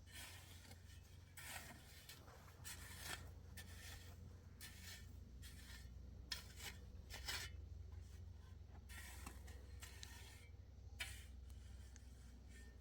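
Faint, irregular scraping and rubbing strokes, a dozen or so short ones at uneven intervals, over a low steady hum.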